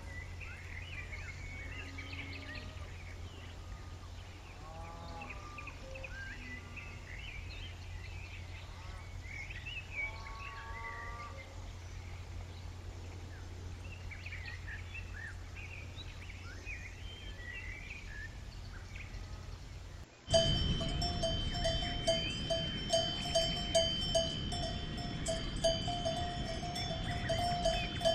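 A few short bleats from livestock over a low steady hum. About twenty seconds in this gives way to a cowbell ringing over and over, struck again and again as the cow moves.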